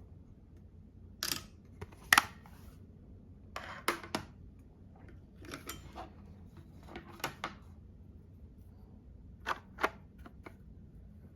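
Makeup cases and tools handled close to the microphone: a scattered series of short, sharp clicks and taps, some in quick pairs, the loudest a little over two seconds in.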